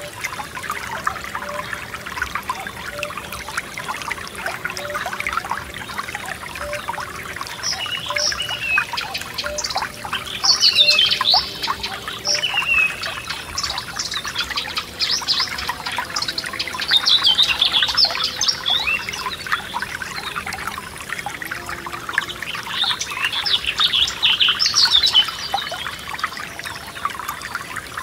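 Small forest stream trickling and splashing over stones, with songbirds singing short, high phrases over it in bursts every few seconds.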